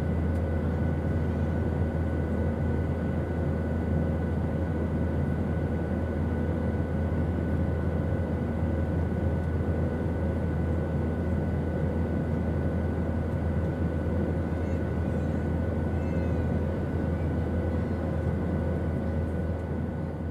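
Airplane drone, steady and unchanging: a deep hum under a wash of rushing noise, with faint high steady tones on top.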